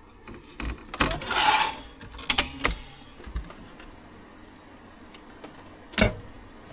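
Small objects being handled: a few sharp clicks and knocks, with a brief rubbing, rustling sound about a second in and another knock near the end.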